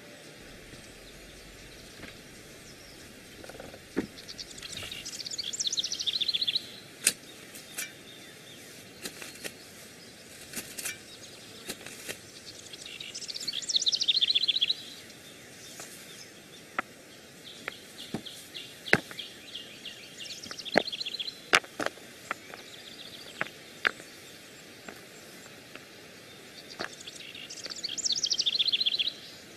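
A songbird repeating a short trill that falls in pitch, about every seven or eight seconds, over a faint steady outdoor background. Scattered sharp clicks and knocks come between the songs.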